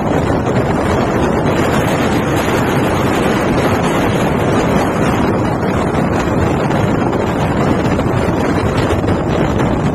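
Steady loud road and engine rumble of an MSRTC bus on the move, heard from inside, with wind rushing over the microphone.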